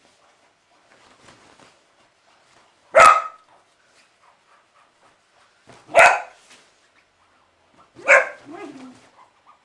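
Border Collie barking sharply three times, about three seconds apart, with faint rustling in between.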